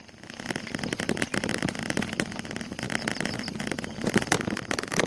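Noise of riding a bicycle: wind buffeting the microphone, with many small crackles and knocks from the bike and camera rattling over the road.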